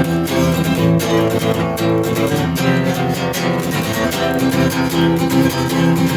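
Strummed acoustic guitar playing chords in a steady, even rhythm: a folk-punk song's instrumental passage.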